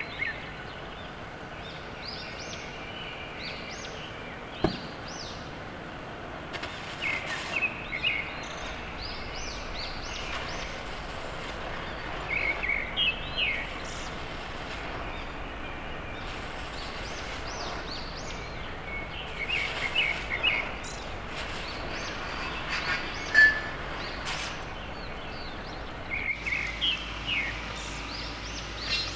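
Small birds chirping in short repeated bursts every few seconds over a steady background hiss. A sharp click sounds about four and a half seconds in and another near twenty-three seconds.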